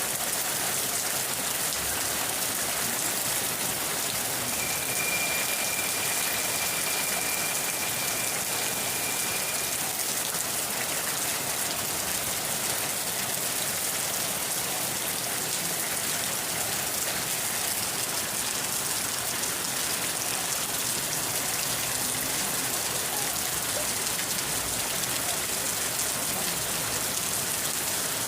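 Steady rain falling, an even hiss with no let-up. A thin steady high tone sounds over it for about five seconds a few seconds in.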